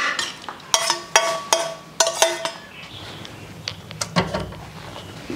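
A utensil clinking against a dish as spare ribs are mixed with fermented black beans and oil: a quick run of sharp, ringing clinks that thins out after about two and a half seconds, with a duller knock around four seconds in.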